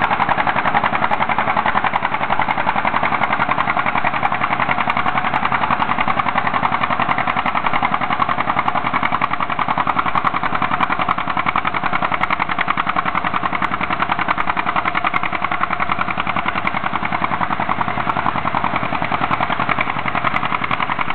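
John Deere A two-cylinder tractor engine running steadily, its exhaust popping in a rapid, even beat.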